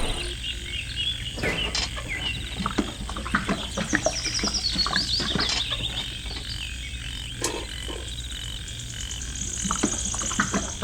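Birds chirping and calling with many short notes, including a descending run of notes and a fast high trill near the end, over a steady low hum.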